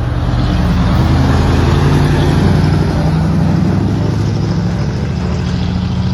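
Dekotora truck's diesel engine running loud through its twin exhaust, rising a little in the first couple of seconds, then holding a steady low drone.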